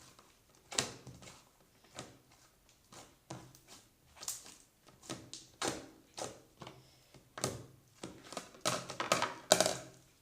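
Slime being worked by hand in a plastic bowl: irregular clicks and soft taps, about one or two a second, coming thicker and louder near the end.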